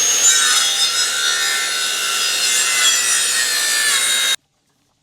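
A saw cutting through a wooden board, a loud, high-pitched, scraping cut that stops suddenly a little over four seconds in.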